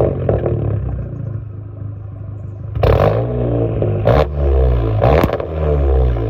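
2019 Volkswagen Jetta GLI's 2.0-litre turbocharged four-cylinder, exhaust straight-piped behind a catted downpipe, being revved. It falls back toward idle, rises in a rev about three seconds in, and gives quick blips with sharp cracks about four and five seconds in.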